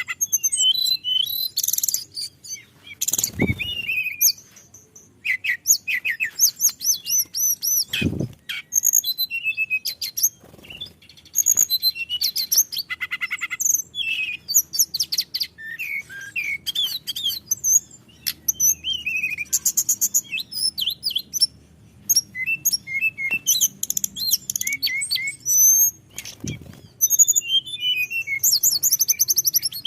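Hill blue flycatcher (tledekan gunung) singing a long, continuous run of rapid, varied whistled phrases and trills with only brief pauses. Three dull low thumps fall in, about a quarter of the way through, roughly a quarter of a minute later, and near the end.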